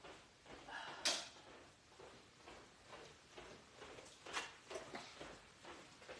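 Faint scattered knocks and rustles of someone moving about away from the microphone, the sharpest about a second in.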